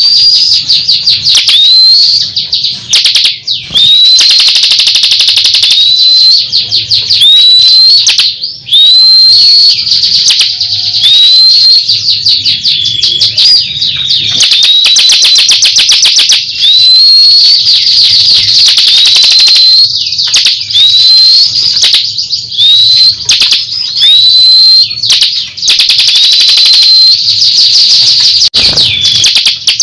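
A songbird singing loud and nearly without pause: fast, high trills broken every second or two by short rising whistled notes, a masteran recording used to teach song to cage birds.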